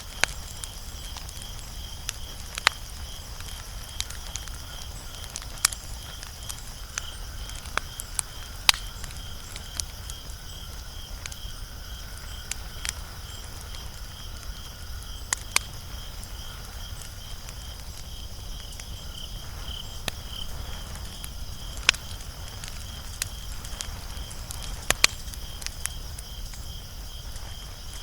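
Wood fire crackling, with sharp pops every second or two over a low steady rumble. A faint high pulsing trill runs under it throughout.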